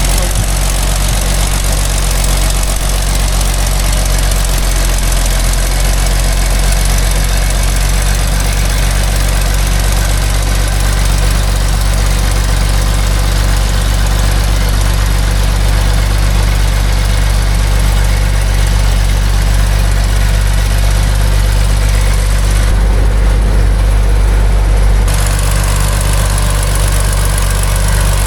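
A heavy logging truck's diesel engine runs steadily at a low, even pitch. The higher part of the sound dims briefly about 23 seconds in.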